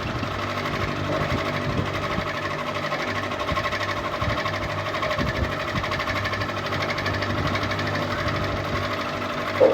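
Ceiling fan running steadily: a constant electric-motor hum with a fast, even flutter from the turning blades. A brief louder sound comes right at the very end.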